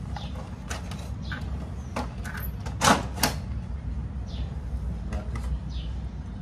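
Scattered clicks and knocks of parts and tools being handled while a photocopy machine is worked on, two sharp clacks loudest about three seconds in, over a steady low hum.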